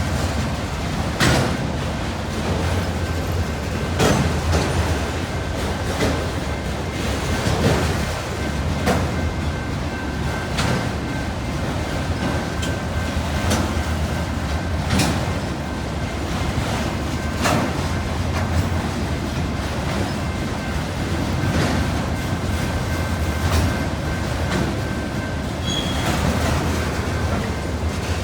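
Autorack freight train rolling past, its wheels clacking over rail joints every second or two over a steady rumble, with a faint high whine of wheels on rail.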